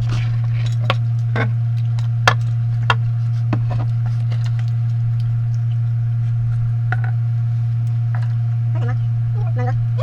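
A steady low hum, with scattered short clicks and crunches of people eating.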